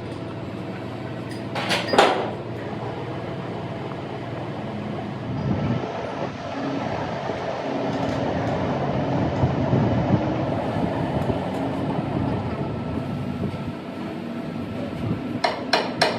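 Steady hum of running machinery, with a couple of sharp metal knocks about two seconds in and a quick run of knocks near the end.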